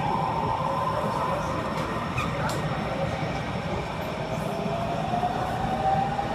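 JR E231 series electric train pulling away, its traction motor and inverter whining over a steady rumble of wheels on rail, the whine rising in pitch as the train gathers speed.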